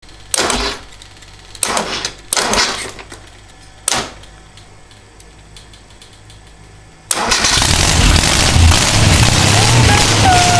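Four short bursts of noise in the first four seconds, then about seven seconds in the Porsche 914's air-cooled engine starts and keeps running, its first start after sitting 15 years. A high steady tone joins near the end.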